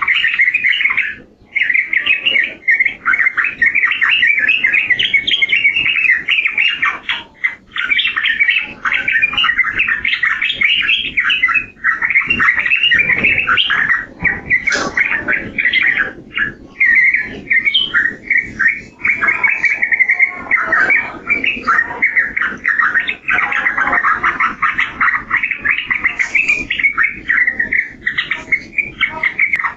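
Yellow-vented bulbul (trucukan) singing a long, rapid, chattering song with only brief pauses.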